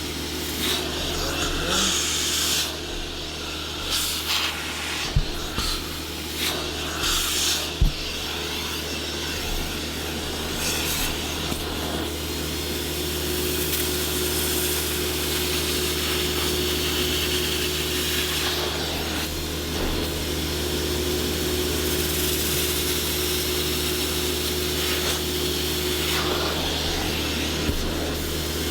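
A cleaning tool's motor running steadily with a constant hum. Over the first dozen seconds there is irregular brushing and rubbing, with a few sharp knocks, as upholstery or carpet is worked.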